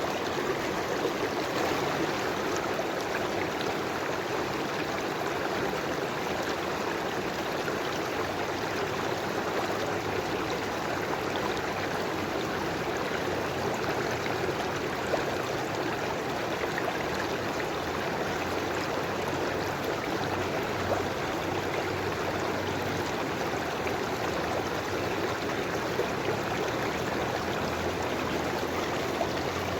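River water flowing steadily over stones, a continuous rushing and babbling with no breaks.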